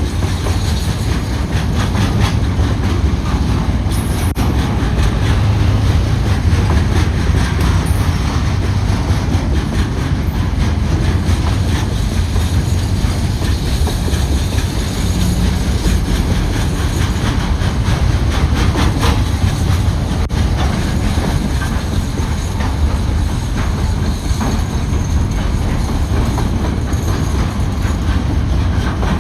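Freight train running past: a steady heavy rumble with the clickety-clack of wheels over the rail joints.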